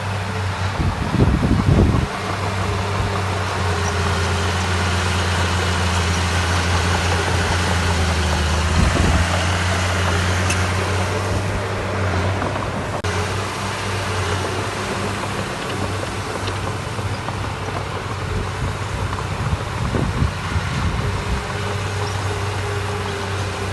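Heavy diesel earthmoving machinery engine running steadily at a deep, even hum, with short swells of louder rumble about a second in, around nine seconds and around twenty seconds.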